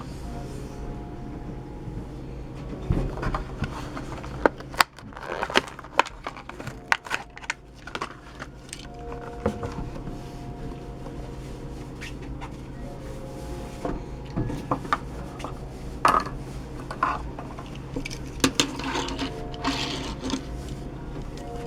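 A Hot Wheels toy car's plastic blister package being handled and opened: scattered sharp clicks, scrapes and crinkles, over a steady low hum.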